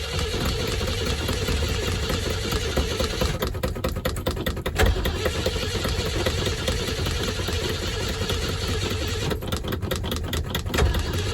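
Car engine being cranked on a cold start after two months parked, not catching: two spells of rapid, even cranking pulses, each ending with a clunk, over a steady mechanical hum.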